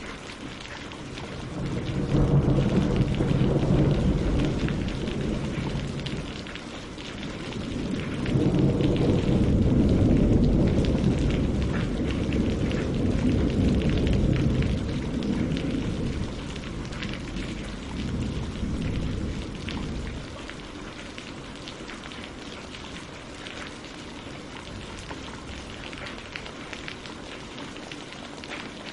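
Steady rain falling on a lake and on tree leaves, with a long rumble of thunder that rolls in about two seconds in, swells twice and dies away by about twenty seconds.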